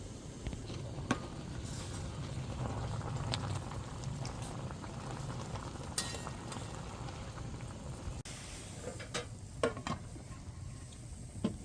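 Food cooking on a camp stove or fire, a steady bubbling and sizzling. There are a few sharp clicks, and a handful of louder knocks in the last few seconds.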